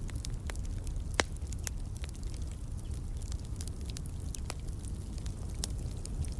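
Wood fire in a fireplace crackling: scattered sharp pops and snaps over a low steady rumble, with one louder pop about a second in.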